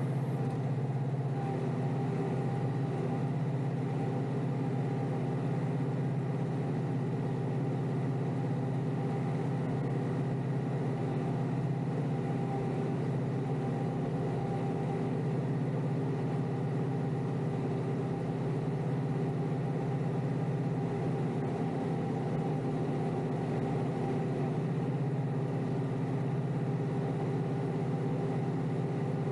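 Kioti DK5320SE tractor's diesel engine running at a steady speed, an even drone with no change in pitch, while pushing snow.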